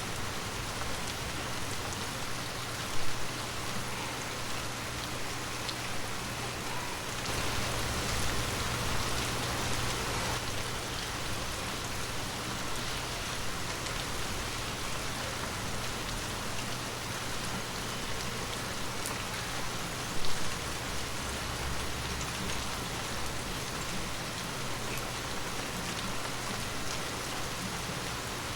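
Heavy rain falling steadily, as an even hiss of many drops on surfaces. It swells louder for a few seconds about a quarter of the way in. Two brief, sharper hits stand out, one near the start and one about two-thirds through.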